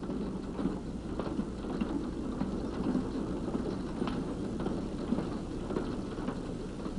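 Empty gondola freight cars rolling along the rails: a steady rumble and rattle with many small clicks from the wheels.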